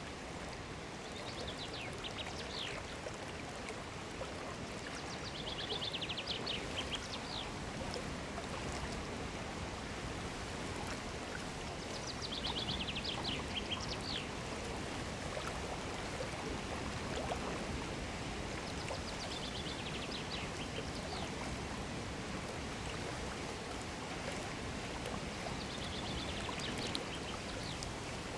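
Mountain torrent rushing steadily over rocks. A high, rapid trill recurs five times, each lasting a second or two.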